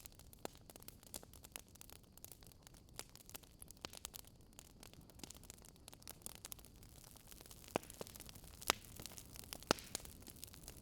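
Wood fire crackling: irregular sharp pops and snaps over a faint steady hiss, with a few louder pops near the end.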